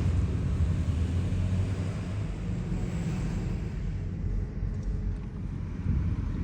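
Vehicle driving: a steady low rumble of engine and road noise with an even hiss of tyres and wind.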